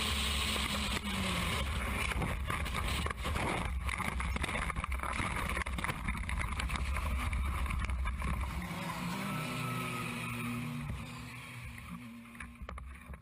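Racing cars running on a circuit: a steady engine drone with a strong low rumble that drops away about nine seconds in, after which the sound fades.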